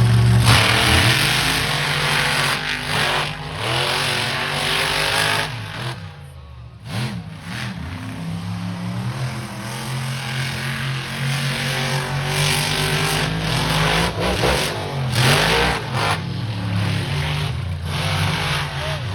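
Monster truck engines revving hard as two trucks race, the pitch climbing and falling repeatedly, with a brief lull about six seconds in.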